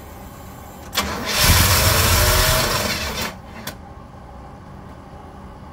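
Long-dormant Oldsmobile Cutlass V8 being cranked by its starter. It fires about a second in and runs with a rising note for about two seconds, then cuts out suddenly.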